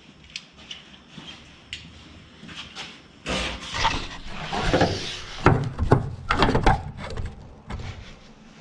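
Irregular knocks, clicks and scraping from hands working with tools and metal parts, growing busier and louder about three seconds in.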